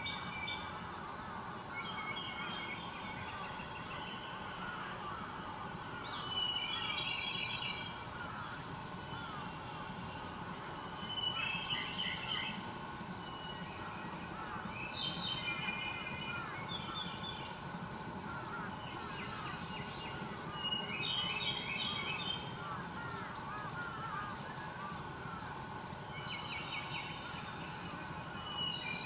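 Wild songbirds singing: short phrases of quick, high notes repeated every four to five seconds, over a continuous background chorus of many small chirps.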